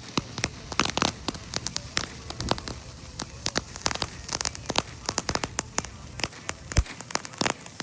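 Small firework crackling: a rapid, irregular run of sharp pops and snaps.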